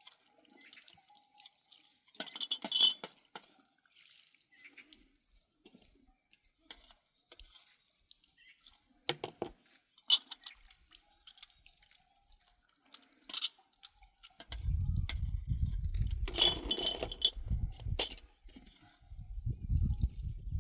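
Glassware clinking now and then, with small sounds of liquid dripping. A low rumble comes in about two-thirds of the way through.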